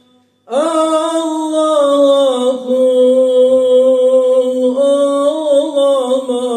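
A voice singing a Turkish ilahi, apparently unaccompanied, in long drawn-out melismatic notes. It comes in after a short pause of about half a second.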